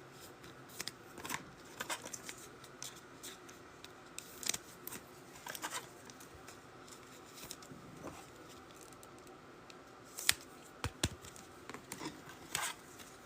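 Trading cards being handled and sorted, with faint, irregular clicks and scrapes of card on card and a few sharper snaps.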